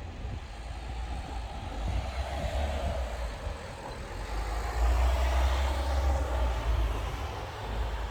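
Wind buffeting the microphone in gusty low rumbles, loudest a little past the middle. A broad rushing noise swells through the middle and fades near the end.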